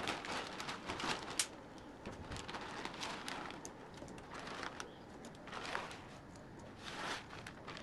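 Pot of water at the boil, bubbling with many scattered small pops, with a couple of brief louder rushes of noise later on, as glass rice noodles go in.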